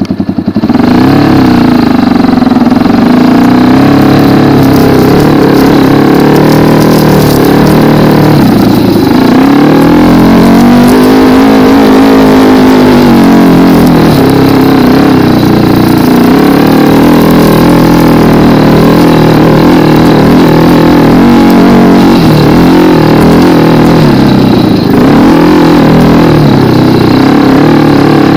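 Racer 250 K2 dirt bike's single-cylinder four-stroke 172FMM engine running loud under way, its pitch rising and falling again and again as the throttle is opened and closed.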